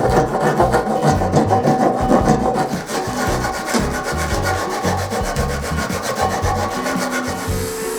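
A hand tool rasping across wood in quick, rhythmic strokes, as when a board is sawn or rasped by hand; the strokes stop shortly before the end. Background music plays beneath.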